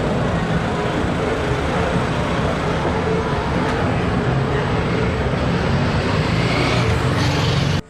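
Steady road-vehicle engine and traffic noise, a dense rumble that cuts off abruptly near the end.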